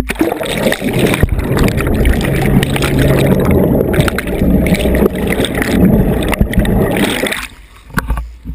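Loud rushing, splashing water close on the microphone as spray wets the camera, cutting off suddenly about seven seconds in.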